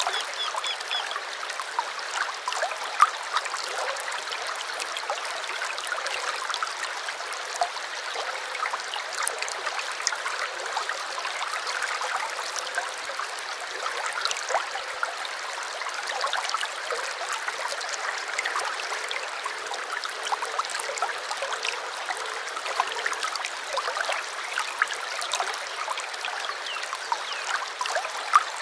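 Small stream flowing steadily, water trickling and babbling with a light, bright splashing and no deep rush.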